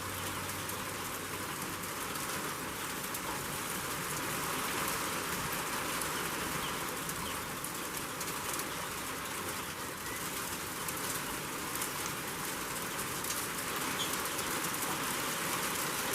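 Freezing rain falling steadily, a soft even hiss full of many small ticks and pattering on surfaces.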